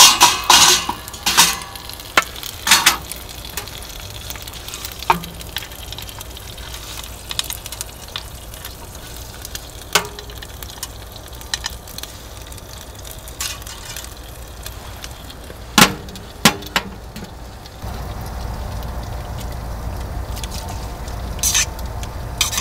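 Food sizzling as it fries, a steady hiss with a few sharp clinks and knocks, most of them in the first three seconds. About eighteen seconds in, a low steady rumble comes in under it.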